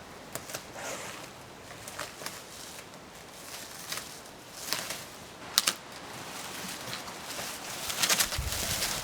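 Scattered sharp clicks and light knocks, the sharpest a little past halfway, with a louder stretch of noise near the end.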